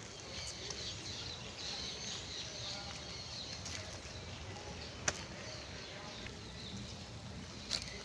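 Small birds chirping and twittering over a low background rumble, with two sharp clicks, one about five seconds in and one near the end.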